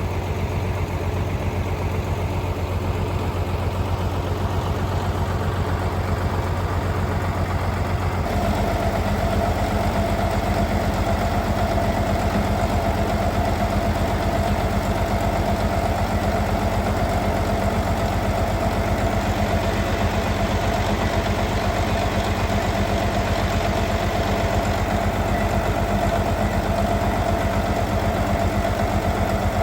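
Tractor engine idling steadily. About eight seconds in, its sound changes and gets a little louder, with a steady whine added on top.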